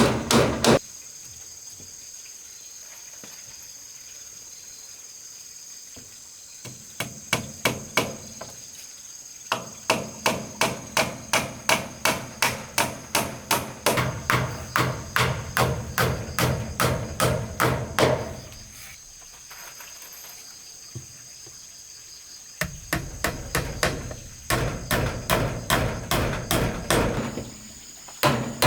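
A hammer striking wood in steady runs of about two to three blows a second, stopping twice for a few seconds. A steady high insect chorus runs underneath.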